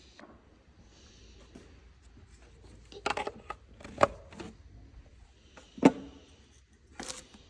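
A few sharp clicks and knocks of hand tools being handled while working on the engine, the loudest about four and six seconds in.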